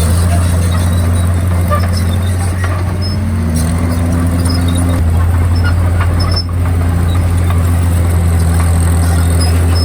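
Komatsu D51PX bulldozer's diesel engine running steadily, its note rising briefly about three seconds in.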